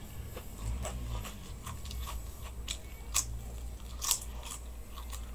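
Mouth chewing a crisp krupuk (fried cracker), with scattered crunches, two louder ones about three and four seconds in.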